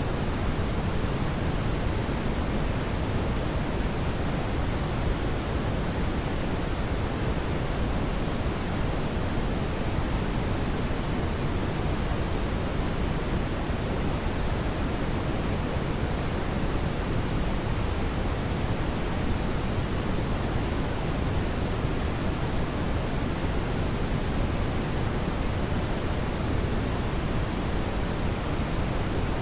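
Steady brown noise: an even, deep rushing hiss, heaviest in the low end, with no change throughout.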